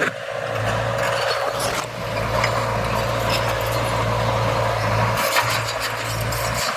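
Heavy earthmoving machinery working: a diesel engine running steadily under a noisy clatter of rattles and scattered clicks from soil and stones.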